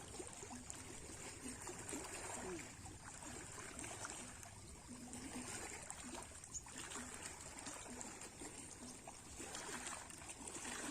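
Sea waves washing and lapping on the shore: a faint, continuous water noise that swells and eases every few seconds.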